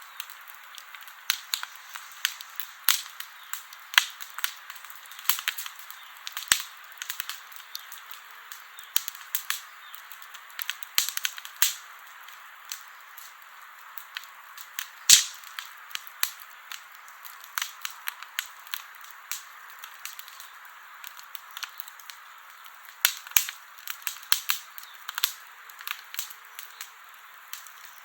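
Campfire crackling: sharp pops at irregular intervals over a steady hiss, with the loudest pop about halfway through.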